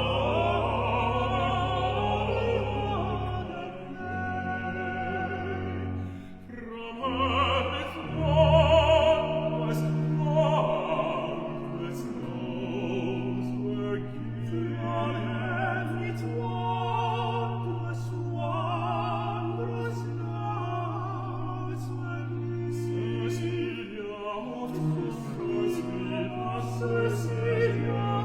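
Baroque vocal trio: alto, tenor and bass soloists singing with vibrato over long held bass notes of a continuo accompaniment.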